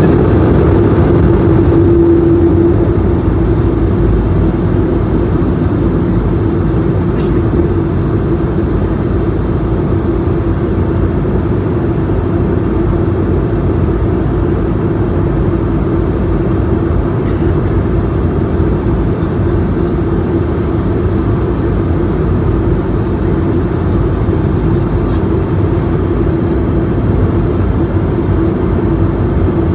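Airbus A220-100 cabin noise in flight on descent: a steady rumble of its Pratt & Whitney geared turbofan engines and airflow over the fuselage, with a steady low hum that is a little stronger in the first few seconds.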